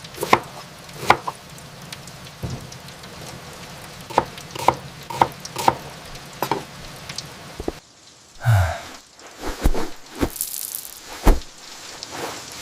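A steady hiss with irregular sharp clicks and knocks of household activity scattered through it. About eight seconds in the hiss drops away briefly, then more knocks follow.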